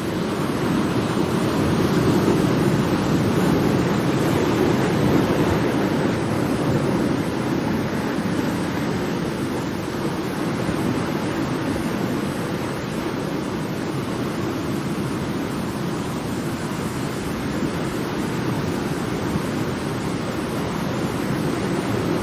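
Ocean waves: a continuous rush of surf that swells a little in the first few seconds and then eases.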